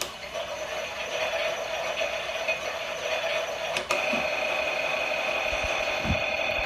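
Klein Miele toy washing machine's small electric motor whirring steadily at a constant pitch as it runs its pretend cycle, with a sharp click at the start and another about four seconds in, and a few soft low thumps near the end.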